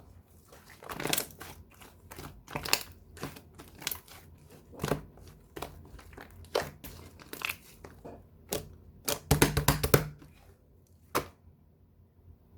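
Slime being squeezed and pressed by hand, making irregular sticky pops and crackles, with a quick run of crackling about nine to ten seconds in.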